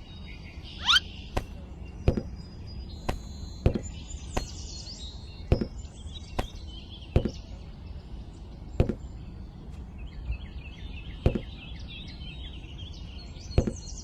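A series of sharp knocks at uneven intervals, roughly one a second, with birds chirping and a short rising whistle about a second in.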